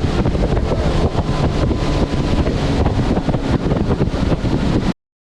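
Heavy wind buffeting on the microphone over the running engine and water noise of a fishing boat moving at speed, cutting off abruptly near the end.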